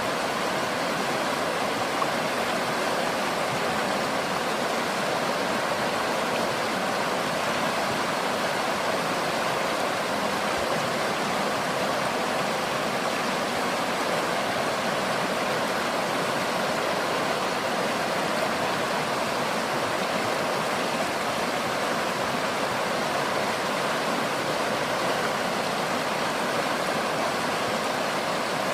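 Nakdong River water flowing, a steady, unbroken sound of moving water with no change in level.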